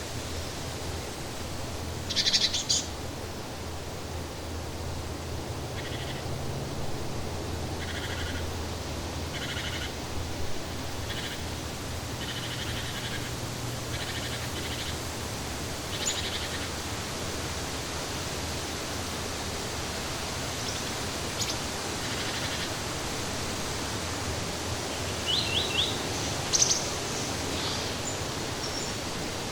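Birds chirping over a steady rushing hiss. One bird repeats short notes from about six to fourteen seconds in, and there are louder bursts of chirps near the start and near the end.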